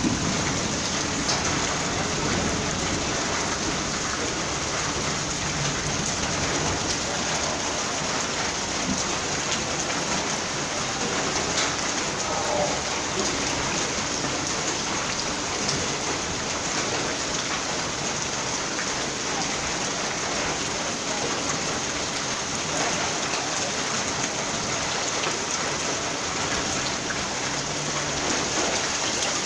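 Heavy rain pouring steadily, a dense, even hiss of water hitting surfaces, with a few scattered drop ticks.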